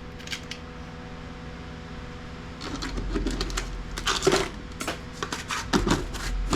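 Small hard parts clattering and clicking as they are handled and shuffled by hand. The handling is quiet at first, with a couple of faint clicks, then becomes a run of irregular knocks and clicks about halfway through.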